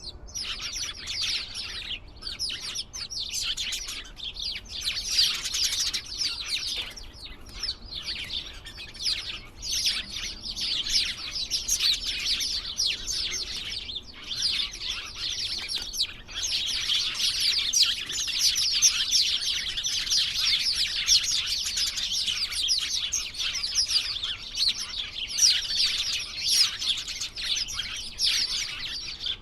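A flock of small birds chirping together in a dense, continuous chatter of quick, high chirps.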